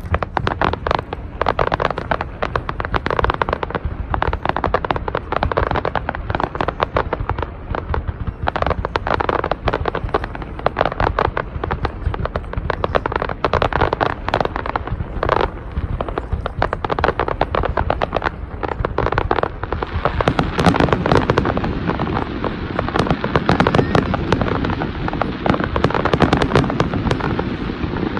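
Aerial fireworks display: a rapid, dense run of bangs and crackles that grows fuller and louder about twenty seconds in.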